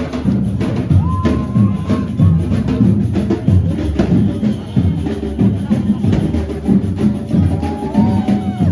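Drums of a procession band beating out a steady rhythm, with a short held high note about a second in and again near the end.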